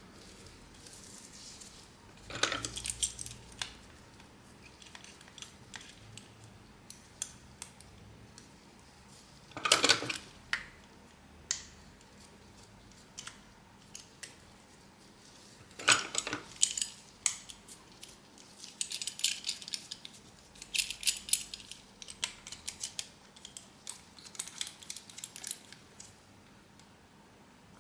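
Small repair tools and phone parts being handled on a workbench: irregular light clicks, taps and clatter, with a few louder knocks and a run of quick ticking in the second half.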